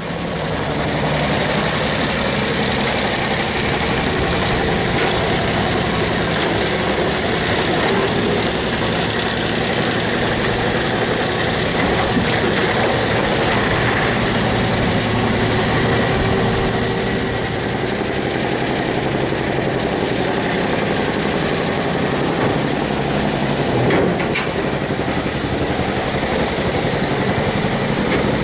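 Diesel engine of heavy construction machinery running steadily, with one sharp knock near the end.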